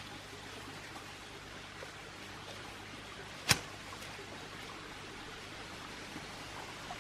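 Steady rushing of running stream water, with a single sharp click or knock about halfway through.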